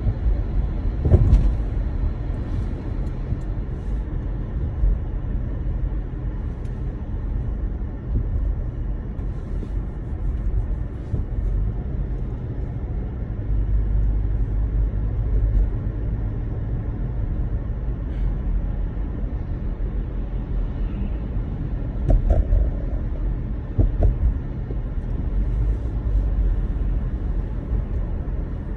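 Steady low rumble of a car driving on a snowy road, heard from inside the cabin, with a few brief thumps about a second in and twice near the end.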